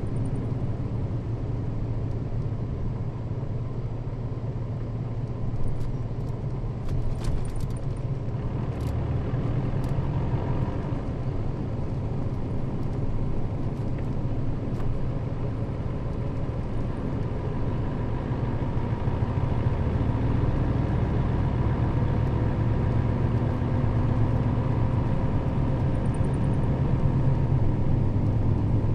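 Inside a Nissan Diesel KL-RA552RBN route bus under way: a steady low engine drone with road noise, and a faint whine that grows a little stronger in the second half. A few light rattles come between about 6 and 10 seconds in.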